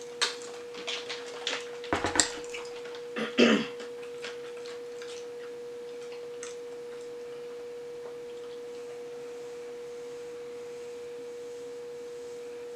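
Mouth clicks and smacks of someone chewing fried chicken in the first few seconds, with one short hummed voice sound, over a steady single-pitched hum that is left on its own once the chewing stops.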